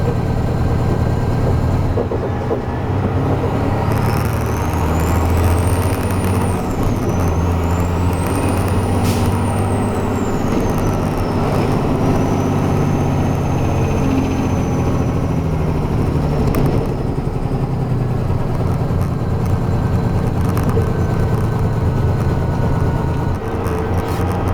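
Heavy truck's diesel engine running steadily while hauling a B-train trailer combination. A thin high whine rises and falls over it from about four to sixteen seconds in.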